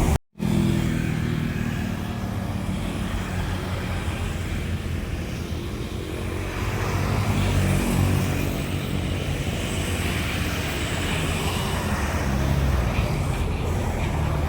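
Jet airliner engines running, a steady low rumble with hiss that holds through, after a brief dropout at the very start.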